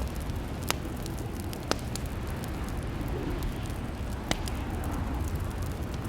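Wood fire crackling in a fireplace: a steady low rumble with many small ticks and three louder sharp pops.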